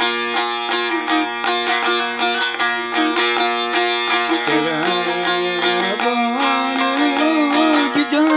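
Turkish folk music (türkü) with a string instrument plucked in quick strokes over a held drone. About halfway through, a lower melody line comes in and wavers in pitch.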